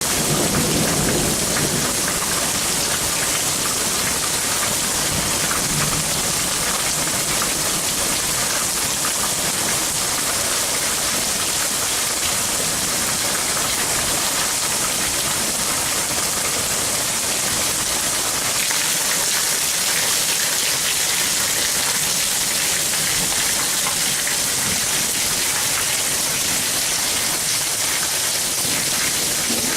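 Heavy rain falling steadily in an intense storm, a dense, even hiss of drops on the ground and surfaces.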